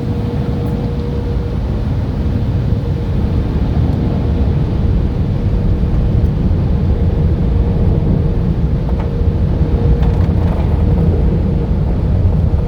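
Tunnel car wash machinery heard from inside the car: a loud, steady rushing noise with a deep rumble and a steady mid-pitched hum, growing slightly louder over the seconds.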